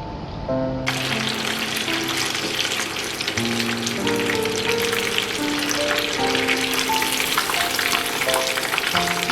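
Food frying in hot oil: a dense sizzle and crackle that starts abruptly about a second in, over background music with a slow melody.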